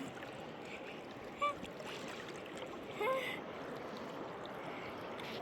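A river running steadily. Two short voice calls cut through it, about one and a half and three seconds in.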